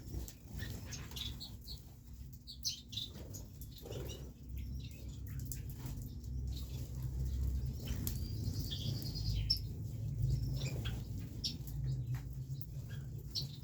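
Pet pigeons and quails flapping their wings and chirping with many short, high calls, over a steady low rumble.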